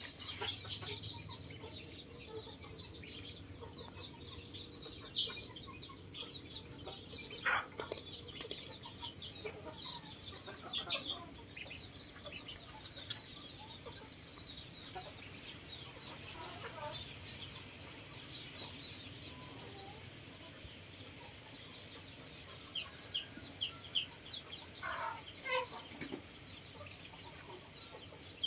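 Birds chirping and calling in the background: many short high calls throughout, with a few louder calls near the end.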